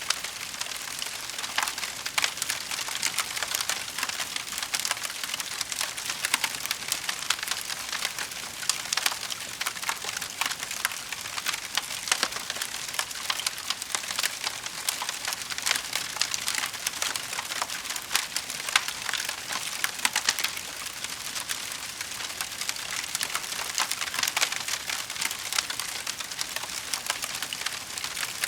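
Wood fire burning in a fireplace, crackling steadily with many small sharp pops over a soft hiss.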